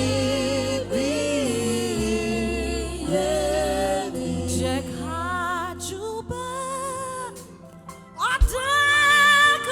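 Gospel worship singing: a solo voice sings a slow, held melody with vibrato over sustained bass and keyboard notes, with a louder phrase near the end.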